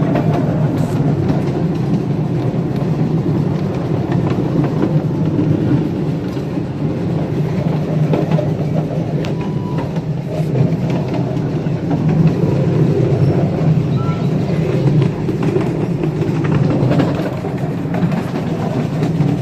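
Train on a ride-on live-steam railroad rolling along the track, heard from the riding cars: a steady rumble of wheels on rail with scattered clicks.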